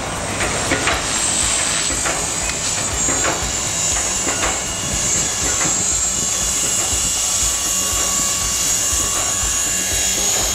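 Storm 450 electric RC helicopter in flight: a steady high whine from its 3800KV brushless motor and gears over the noise of the spinning rotors, with a low rumble underneath.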